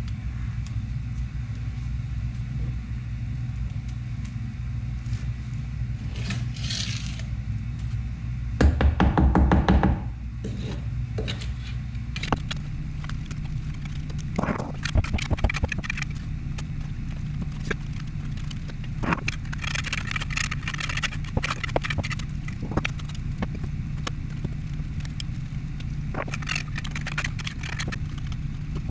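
Scraping and light knocks over a steady low hum, with a short loud burst of rapid rattling knocks about nine seconds in and a stretch of harsher scraping later on.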